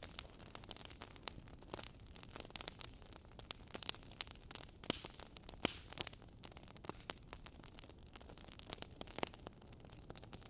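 Wood fire burning in a fireplace: a soft, steady hiss with irregular crackles and pops from the logs, a few sharper pops about five and six seconds in.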